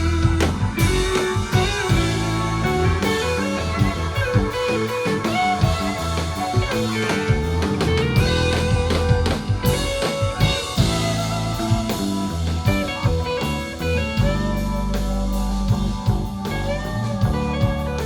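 Live rock band playing an instrumental passage: electric guitar lines over bass and a drum kit.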